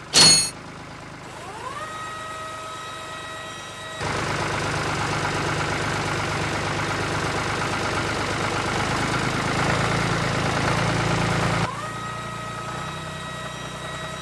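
Small electric motor of a DIY model tractor running: its whine rises in pitch about a second and a half in and then holds steady. From about four seconds in it turns louder and noisier for most of the rest, then settles back to a steady whine near the end. A brief, loud swish comes right at the start.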